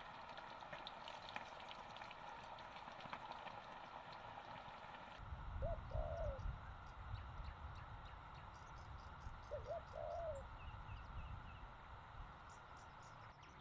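A bird calling twice, each call a short pair of hooting notes a few seconds apart, over a steady background hiss; a low rumble comes in about five seconds in.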